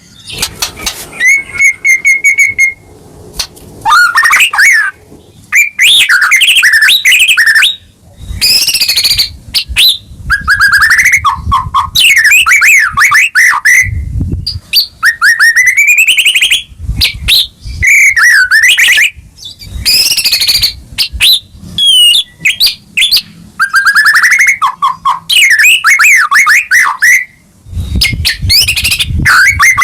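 White-rumped shama (murai batu) in full, excited song: a long run of varied loud phrases of clear whistles, fast trills and rising and falling glides, with short pauses between phrases.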